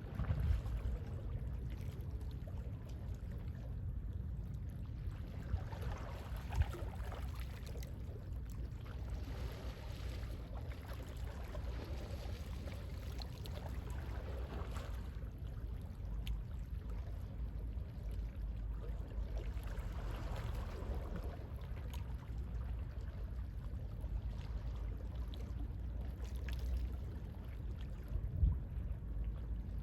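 Gentle sea waves washing in and out in slow, soft swells, over a steady low rumble of sea wind.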